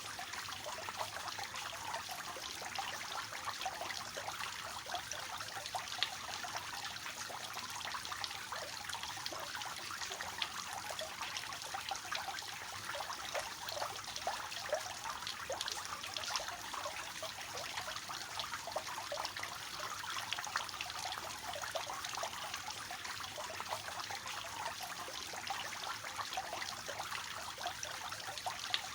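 Water from a three-tiered fountain falling and splashing steadily into its basins, a continuous soft splashing trickle with no changes.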